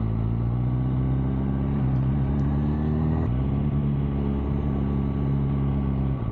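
MV Agusta Brutale motorcycle engine running under way. Its pitch creeps up over the first three seconds, steps about three seconds in, then holds steady.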